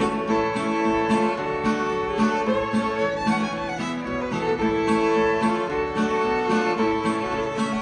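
Fiddle playing a tune, accompanied by a guitar strumming in a steady rhythm.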